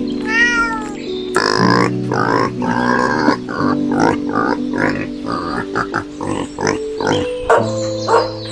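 A cat meows once, a single arched call, at the start. About a second in, a quick run of many short animal calls follows over background music with sustained notes.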